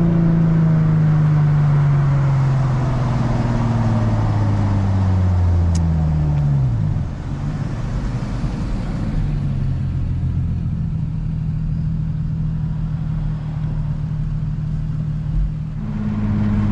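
Infiniti G35's 3.5-litre VQ35 V6, exhaust straight through with the muffler and resonator deleted. The engine note falls steadily as revs drop over about seven seconds, then settles into a steady low drone.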